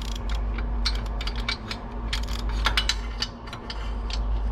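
Hand ratchet with a 12 mm swivel socket clicking in quick, uneven runs as it spins off the exhaust header nuts on a Kawasaki Z900.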